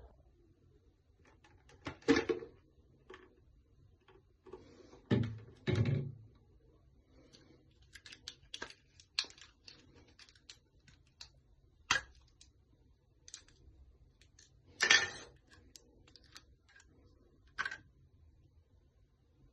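Scattered clicks and taps with a few louder knocks, about 2, 5 and 15 seconds in. This is handling noise of small hard objects, with no motor running.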